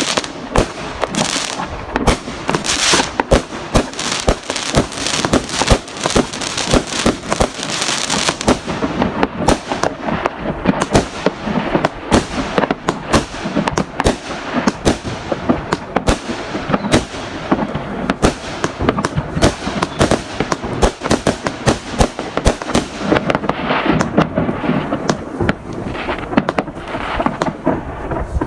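Dense neighbourhood fireworks: many overlapping bangs and booms with crackling, going on without a break, and a high hiss over the first eight seconds or so.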